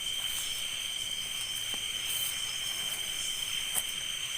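A steady chorus of crickets, several high-pitched tones holding without a break, with one sharp click nearly four seconds in.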